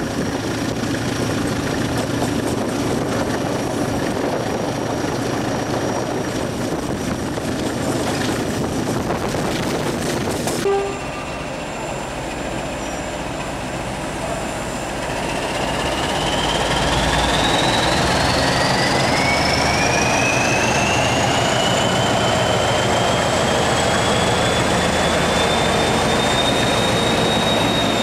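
Train running on the rails with a steady rumble, then an abrupt change to a train pulling away, its high whine climbing steadily in pitch for several seconds before levelling off.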